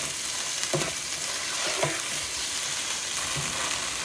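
Chopped tomatoes sizzling in hot oil with fried onions and ginger-garlic paste, stirred in the pan, with a spoon knocking against the pan twice.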